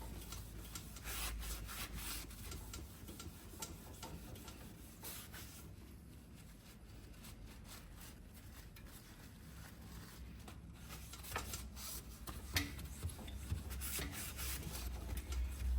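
Cloth and ash being rubbed over the fireplace's glass door, faint scrubbing in irregular strokes, quieter in the middle, with a few sharper clicks near the end.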